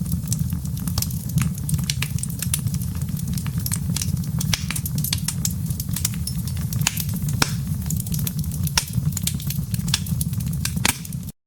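Wood fire in a fireplace crackling, with frequent sharp pops over a steady low rumble of the flames. The sound cuts off suddenly near the end.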